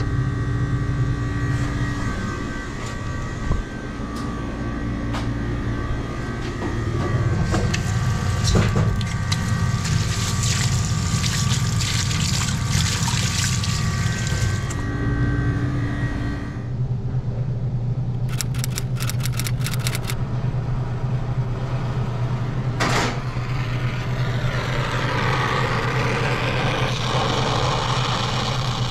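A steady machine hum runs throughout. In the middle, tap water runs into a stainless steel sink. After a quick run of clicks, a brazing torch flame hisses near the end as it heats the copper refrigerant line.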